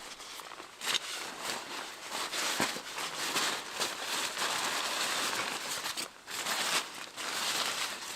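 Crinkling, rustling handling noise with a few sharp crackles and clicks, and a brief dip about six seconds in.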